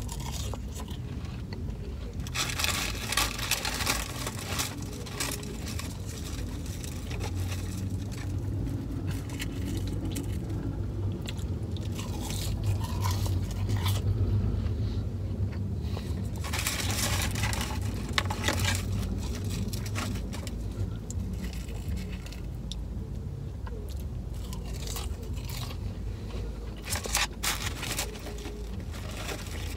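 A person biting and chewing crisp French fries, the crunching coming in several louder stretches, over a steady low hum.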